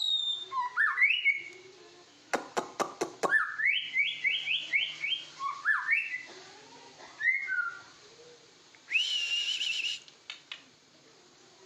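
White-rumped shama (murai batu) singing: clear rising whistles, a run of sharp clicks about two seconds in, then a quick string of repeated rising notes and, near nine seconds, a held warbling note.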